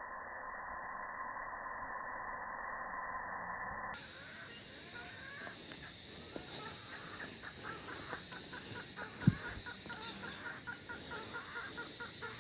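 Birds calling in short repeated notes over a steady high-pitched hiss, with one sharp thump about nine seconds in.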